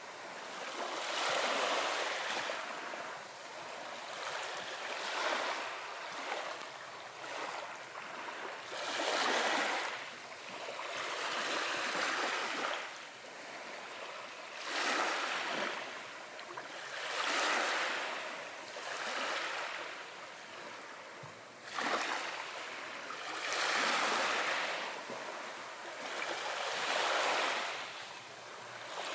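Small waves washing onto a beach, each wave swelling into a hiss of surf and draining away, with a new surge every few seconds.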